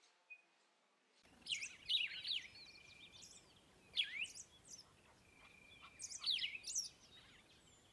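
Birdsong: quick chirps and whistled downward sweeps starting about a second in, coming in three bursts with short held notes between them.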